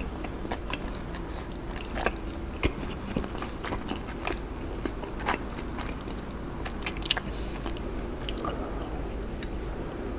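A person chewing a mouthful of cheese corn dog close to the microphone, with scattered sharp mouth clicks and small crunches of the fried batter.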